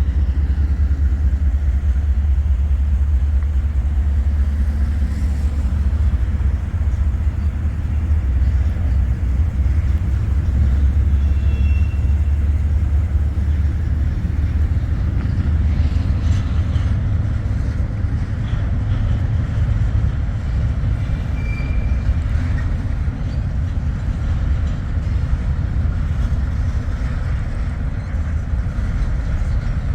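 Long diesel-hauled freight train rolling by, a steady low rumble, with a few faint high squeals.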